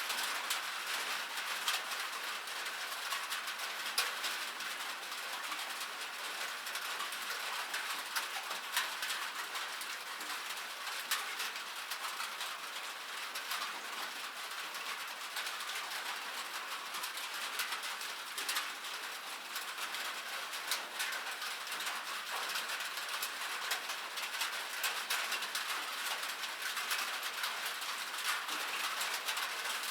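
Steady rain falling on a metal surface: a dense hiss of drops with many sharp, irregular ticks as individual drops strike the metal.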